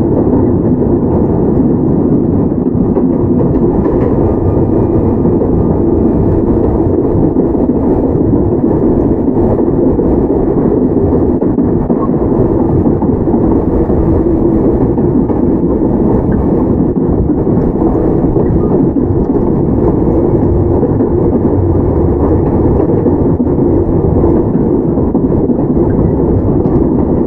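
Running noise of a Toyama Chiho Railway 17480 series electric car (ex-Tokyu 8090 series) heard from inside the car: a steady rumble of wheels on rail and the car moving at an even speed.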